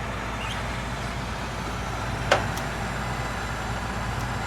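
Gas furnace's draft inducer motor running with a steady hum. A single sharp click sounds about two seconds in.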